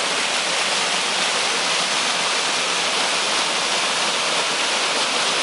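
Waterfall on a mountain creek heard up close: a steady, loud rush of falling water.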